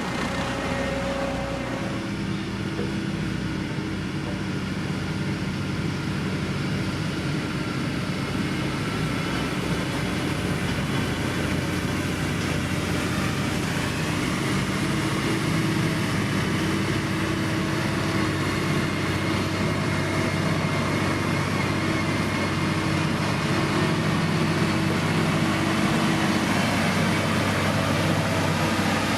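Diesel engine of a heavy road-construction machine running steadily: a low drone with a pulsing rumble. The engine note shifts slightly a couple of times and grows a little louder in the second half.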